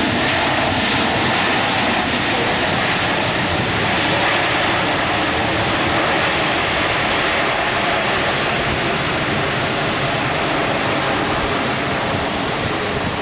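Jet airliner's engines running, a steady noise that eases slightly near the end.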